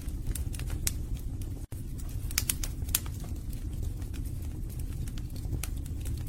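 Wood fire burning in a fireplace: a steady low rumble of flames with irregular sharp crackles and pops from the burning logs. The sound cuts out for an instant about two seconds in.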